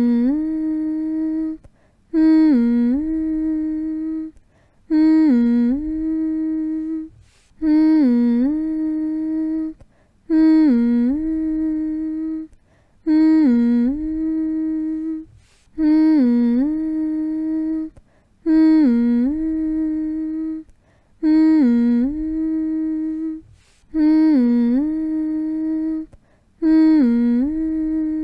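A voice humming the same soothing phrase over and over, about ten times. Each phrase lasts roughly two and a half seconds: the pitch dips and rises back, then holds a steady low hum, and a brief gap follows before the next.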